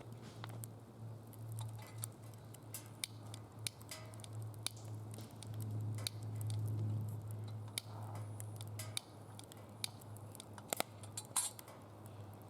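Wood fire in a steel fire pit crackling, with scattered sharp pops at irregular moments over a steady low hum.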